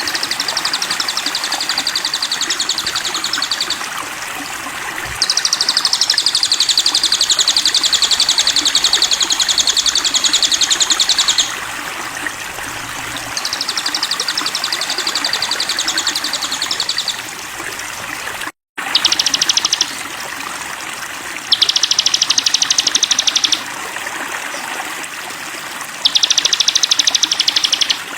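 Sogon bird singing: repeated phrases of a rapid, high, buzzy trill, each lasting two to six seconds, over a steady running-water background.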